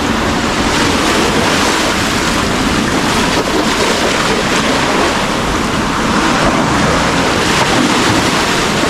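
Ocean waves breaking and washing over a rocky coral shoreline in a steady, loud rush, with wind buffeting the microphone.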